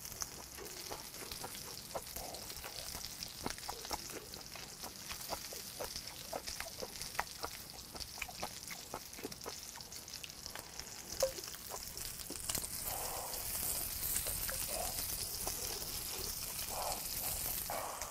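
Beef intestines frying in a pan over a charcoal grill: a steady sizzling hiss with many small crackling pops. The sizzle grows louder about twelve seconds in.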